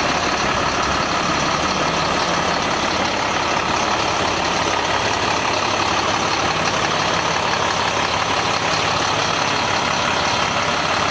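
Caterpillar C7 inline-six diesel of a Freightliner M2 truck idling steadily.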